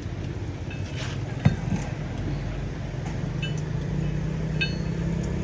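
An engine running steadily, with a sharp knock about one and a half seconds in and a few light metallic clinks near the end.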